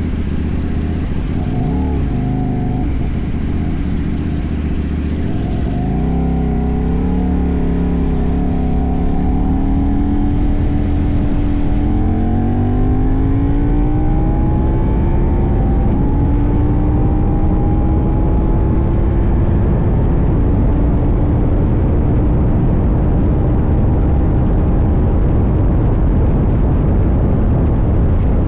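CFMoto 800NK's parallel-twin engine under way, rising in pitch as the bike accelerates through roughly the first half, then holding a nearly steady cruising note. Heavy wind rumble on the tank-mounted microphone.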